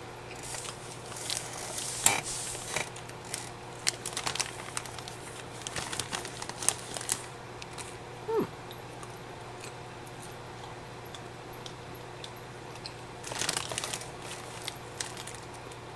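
A plastic snack bag of popcorn crinkling and rustling as it is handled, with small clicks and rustles from popcorn being picked out and eaten. The sounds are irregular, mostly in the first half, with another short rustle near the end.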